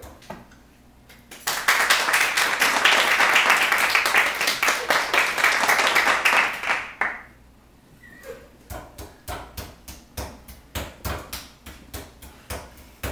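Applause, a dense crowd of clapping for about five seconds that then dies away into slower, separate claps at a steady pace.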